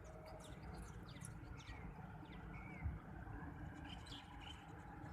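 Small birds chirping in short, scattered calls over a faint, steady low rumble, with a single brief knock nearly three seconds in.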